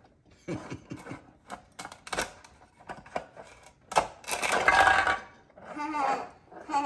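Knife knocking against a cutting board in irregular sharp taps as a tomato is cut by hand, with one stronger knock about four seconds in. A young child's voice is heard briefly near the end.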